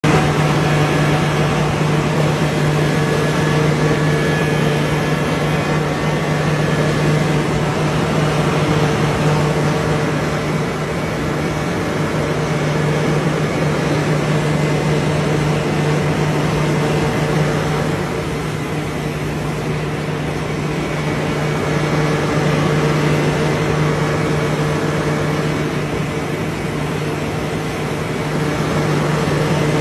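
Excavator engine running steadily with a constant low hum, easing slightly in level about two-thirds of the way through.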